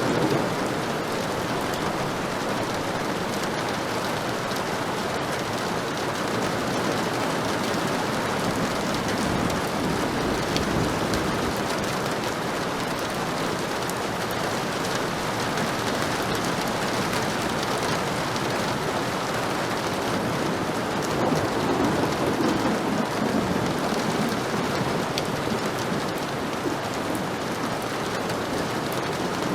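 Heavy rain falling steadily, with low rumbles of distant thunder swelling now and then beneath it.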